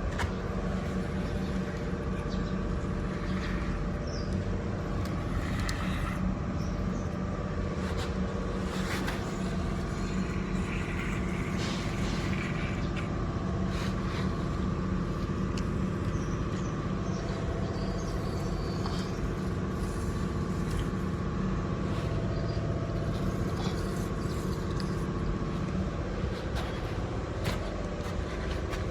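Small electric motors and gearboxes of radio-controlled toy construction vehicles whirring steadily, with scattered clicks and scrapes.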